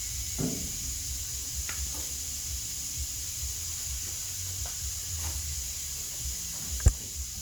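Faint scuffing of polish being worked by hand onto the truck box's painted metal, over a steady hiss, with one sharp knock near the end.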